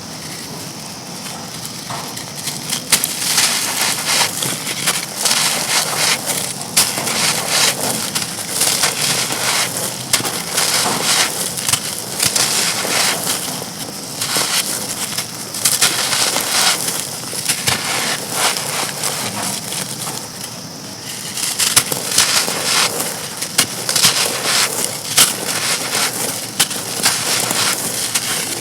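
Dry, dusty black stone bricks being crumbled and crushed, a dense run of crisp crunching and crackling in bursts that eases off about two-thirds of the way through, then picks up again.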